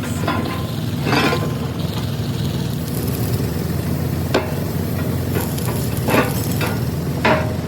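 A heavy engine running steadily with a low drone, with a few short hissing, scraping bursts of metalwork over it.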